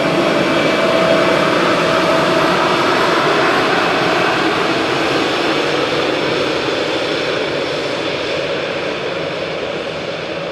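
Airbus A320's twin turbofan jet engines running: a steady loud rush with a faint high whine, slowly fading toward the end as the airliner moves away.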